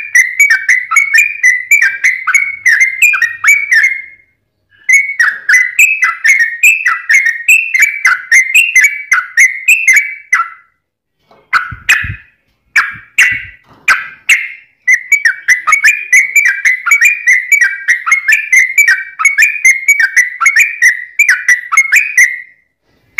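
Trucukan (yellow-vented bulbul) singing fast, dense runs of short chattering notes with hardly a pause. The song breaks briefly about four seconds in and again after about ten seconds, when a few separate notes and a couple of low thumps come before the fast run resumes.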